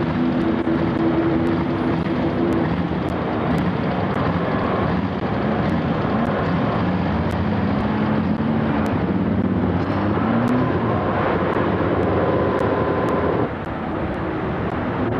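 Steady motor-vehicle engine noise, with engine tones that shift and one that rises in pitch around the middle. The noise drops a little in level near the end.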